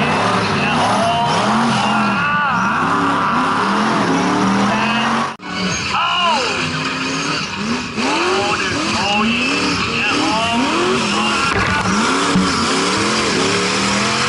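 Mega truck engine revving hard, its pitch rising and falling again and again as the throttle is blipped through a freestyle run. The sound cuts out for a moment about five seconds in.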